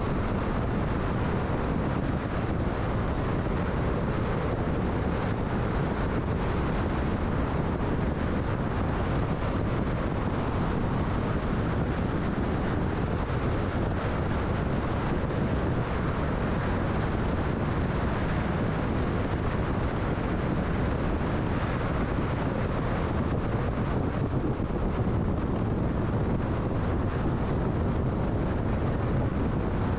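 Steady road and wind noise of a car cruising at freeway speed, an even noise heaviest at the low end that holds level throughout.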